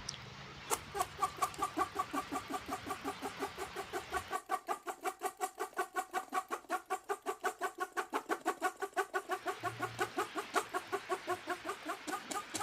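An animal's short, evenly repeated pitched calls, about four a second, running steadily.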